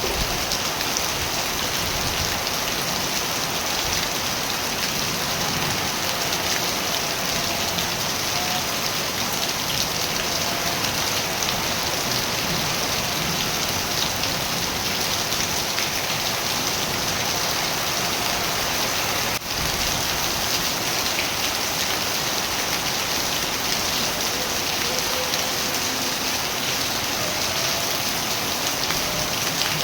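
Steady, heavy rain falling on surfaces, an even dense hiss of drops with one brief dip about two-thirds of the way through.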